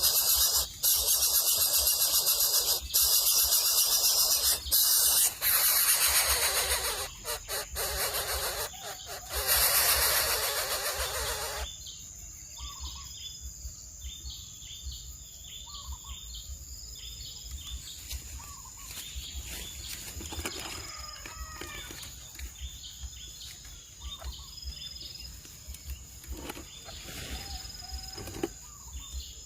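A loud, even rushing noise that cuts off suddenly about twelve seconds in, followed by birds giving repeated short chirps and calls over a steady high whine.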